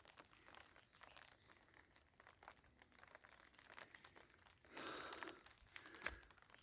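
Faint, scattered crackling and rustling, with a brief louder rustle about five seconds in.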